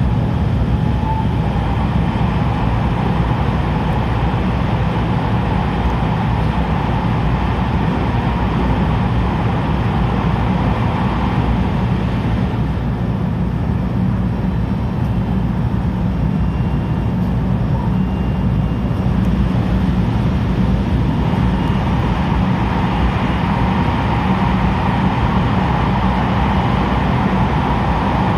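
JR 223 series 2000-subseries electric multiple unit running along the line: a steady rumble of wheels on rail with faint high tones over it.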